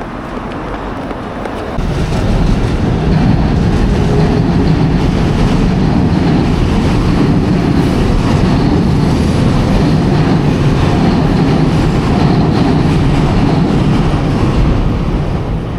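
A train passing close by: a loud steady rumble that swells about two seconds in, holds for some twelve seconds and falls away near the end.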